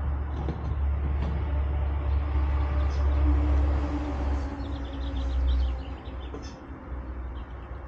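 A motor vehicle's low rumble, loudest in the middle and fading about six seconds in. Small birds chirp in quick, short high notes near the end.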